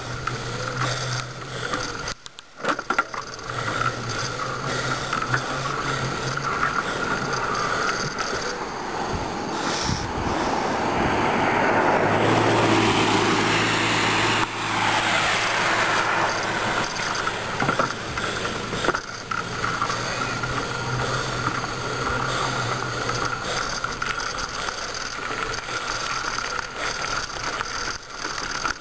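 Bicycle being ridden on a road: a steady rushing noise of riding, which swells louder between about ten and sixteen seconds in.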